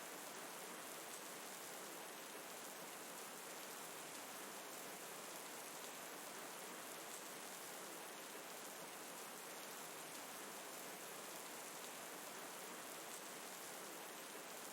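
Steady rain falling, an even hiss that does not change, with faint scattered drop ticks.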